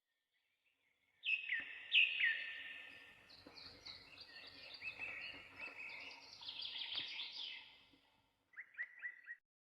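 Small birds calling and chirping, starting about a second in: two loud downward-slurred calls, then a run of many quick high chirps, and a short burst of four rapid notes near the end.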